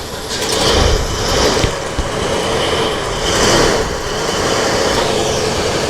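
2000 Dodge Ram 1500 Magnum engine running rough and stumbling at the edge of stalling on a hard cold start, after a year of sitting unstarted.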